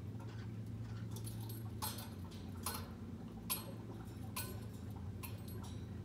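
Small caged pet birds making a handful of short, sharp sounds spaced about a second apart, over a steady low hum.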